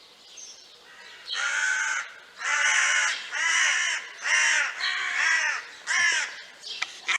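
Kittens meowing: a run of about six loud, high-pitched meows, each about half a second long, starting about a second in.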